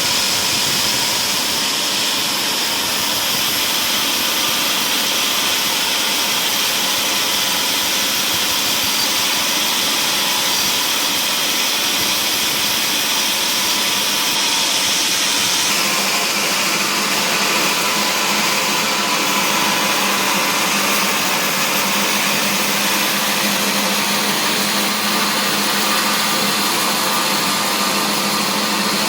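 Wood-processing machinery running steadily, a constant loud mechanical noise with a faint steady hum, changing slightly about halfway through.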